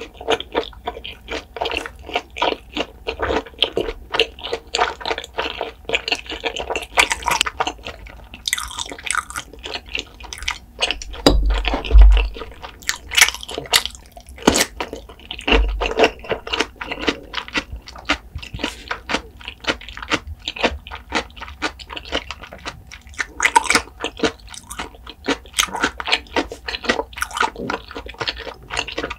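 Close-miked chewing: wet, crackly mouth sounds of food being chewed, with a crunchy bite into a whole pickle around the middle and a couple of dull low thumps near it.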